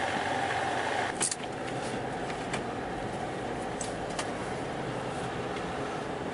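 Car running, heard from inside the cabin: a steady hum that stops about a second in with a sharp click, then steady engine and road noise with a few light ticks.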